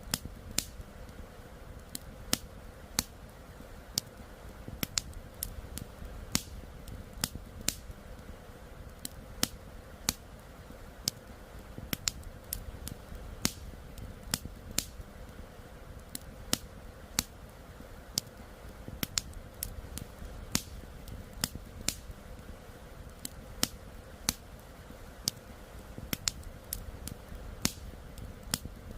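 Wood campfire crackling: sharp pops and snaps at irregular spacing, about two a second, over a steady low rush of flowing river water.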